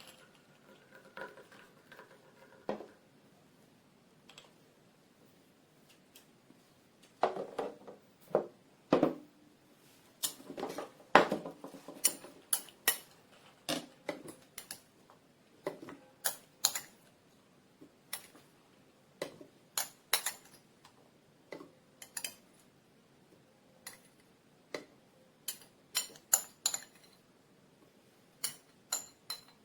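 Hard parts of a blender being handled and set down, making irregular clinks, clicks and knocks that come every second or so, loudest in a cluster around the middle.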